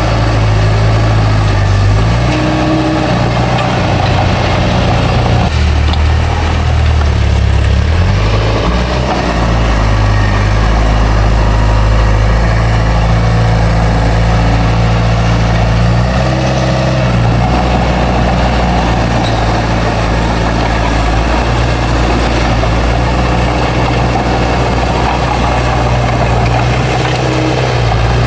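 Bulldozer's heavy diesel engine running steadily, its engine speed dropping and rising a few times as it works.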